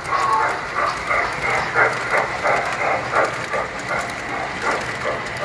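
A tinplate model train running on its track, rattling with a regular clicking rhythm of about three clicks a second over a faint steady high tone.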